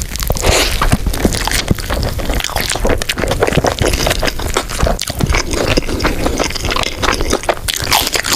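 Close-miked eating sounds: wet, messy chewing, a dense run of small smacks and clicks throughout.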